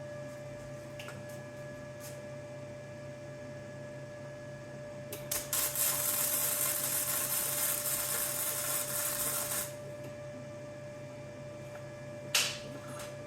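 MIG 200 welder laying a weld bead for about four and a half seconds, starting about five seconds in, with a brief second burst near the end, over a steady electrical hum.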